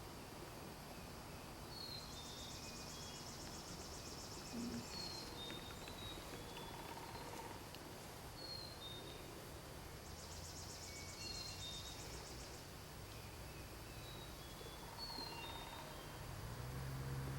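Small songbirds calling faintly in woodland: short high chirps throughout, and a high buzzy trill about three seconds long that comes twice, about two and ten seconds in.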